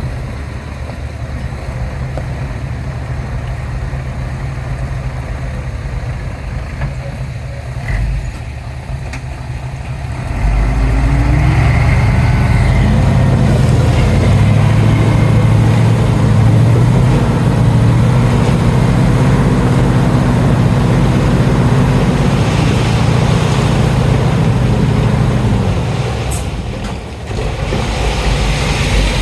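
Heavy diesel engine running low and steady, then revving up about ten seconds in and working hard for some fifteen seconds before easing off near the end.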